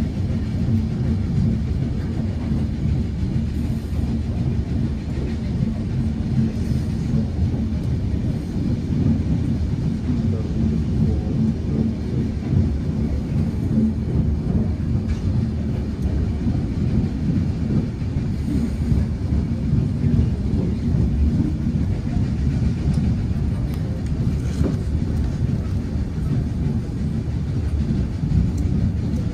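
Passenger train in motion heard from inside the carriage: the steady low rumble of wheels on the track. A faint steady hum sits under it for about the first half.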